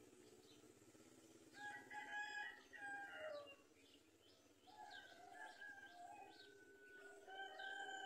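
Faint bird calls: a long call with several overtones from about a second and a half in, ending in a falling note, then a second long, drawn-out call from about four and a half seconds in, over faint short high chirps.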